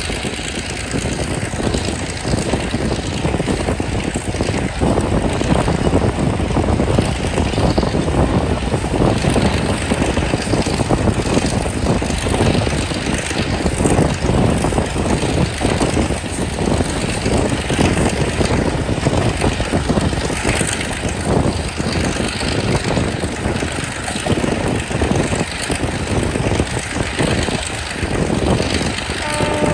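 Passenger train running along the line: wheels clattering over the rails amid steady rumbling running noise.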